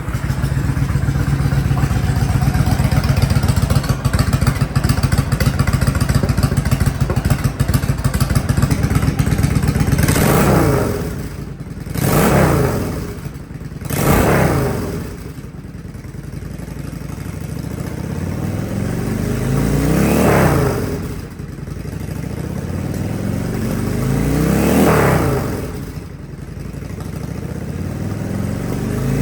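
Yamaha Drag Star 1100's air-cooled V-twin, breathing through long drag-pipe exhausts, idling steadily just after starting. About ten seconds in it gets three quick throttle blips, then three slower revs that rise and fall.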